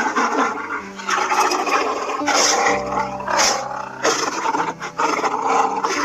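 Lion roaring and growling in a run of rough calls, one after another, over soft held background music.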